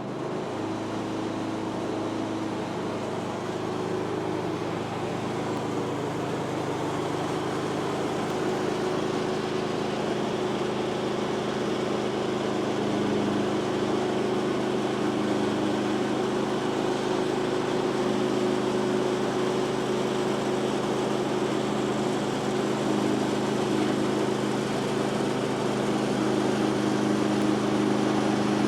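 Woodland Mills HM126 portable bandsaw mill running: its petrol engine holds a steady note under load as the band blade cuts through a log, growing slightly louder over the cut.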